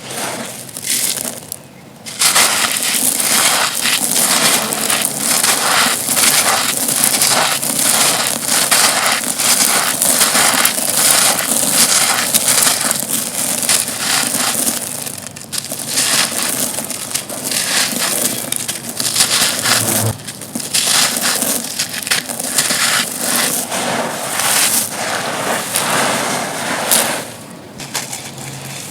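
Dry, dusty, stone-like chunks being crumbled, a dense crunching and crackling with brief lulls about two seconds in and near the end.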